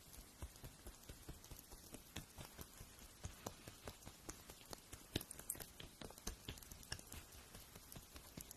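Fingernail grinding heard close up: faint, irregular crisp clicks and scratchy ticks, several a second, over a soft hiss.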